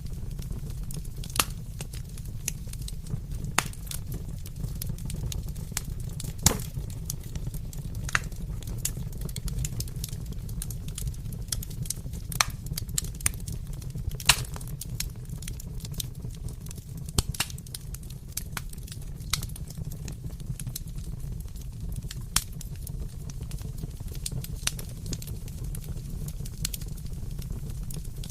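Wood fire crackling in a fireplace: a steady low rumble with irregular sharp pops and snaps every second or two.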